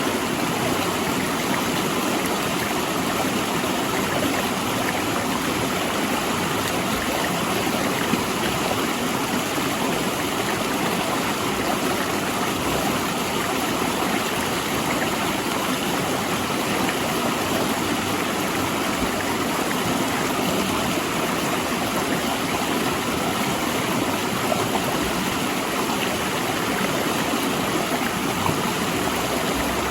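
Fast river water rushing steadily over and between large rocks, a continuous even rush with no breaks.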